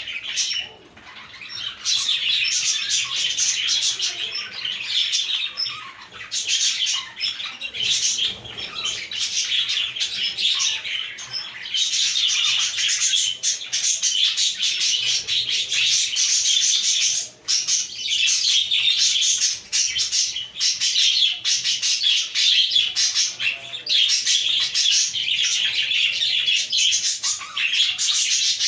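A flock of budgerigars chirping and warbling together, a dense continuous chatter of many overlapping high calls with only brief lulls.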